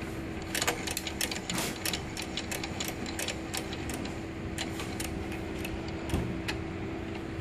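The mechanical frequency-tuning mechanism of a Polarad 1106B microwave signal generator being cranked by hand. It gives a run of clicks, about four a second, over a steady hum, and the clicks stop near the end.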